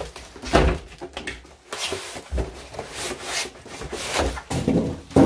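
A cardboard box being handled and opened: irregular rustling and scraping with knocks, the loudest near the end.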